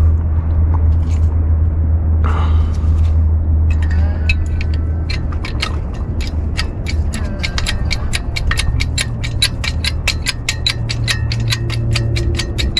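A metal ratchet clicking rapidly and evenly while a truck is being jacked up. The clicks start about four seconds in and speed up to several a second, over a steady low hum.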